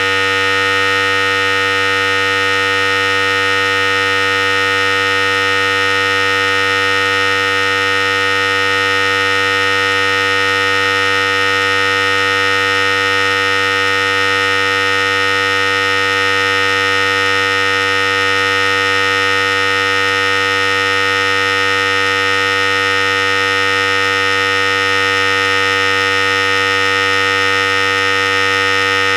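Philips Series 5000 electric clipper running steadily: an even, unbroken buzz.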